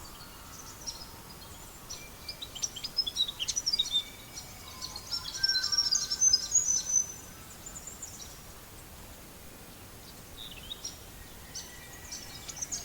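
Songbirds chirping and whistling in two busy spells, over a steady background hiss.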